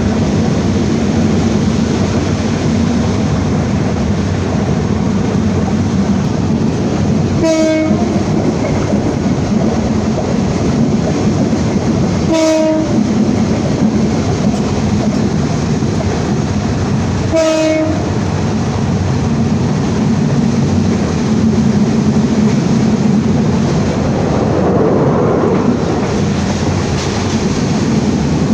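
Passenger train running steadily, with three short horn blasts about five seconds apart.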